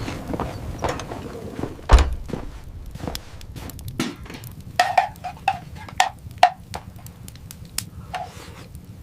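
A heavy thump about two seconds in, then a run of short knocks and clicks, most of them close together between about five and six and a half seconds.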